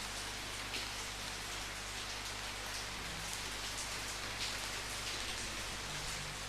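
Steady rain falling, an even hiss with a few louder drop hits scattered through it.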